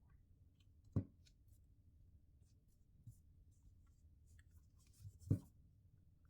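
Handling noises on a work surface during a smartphone teardown: faint scratching and rubbing, with two sharp taps, about a second in and again near the end, and a lighter one in between.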